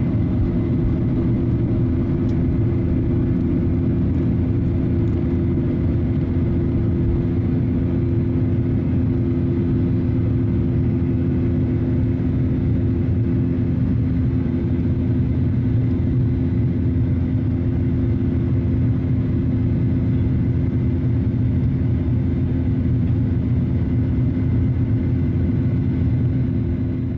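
Boeing 737-900ER cabin noise in flight: the steady drone of its CFM56-7B jet engines and rushing air, a deep rumble with a couple of steady hum tones over it.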